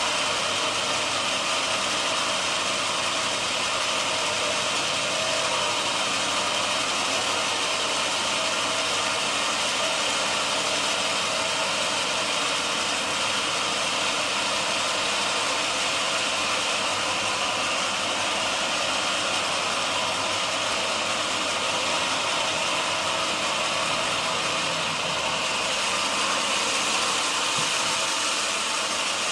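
Sawmill machinery running steadily: a constant, even mechanical noise that does not change.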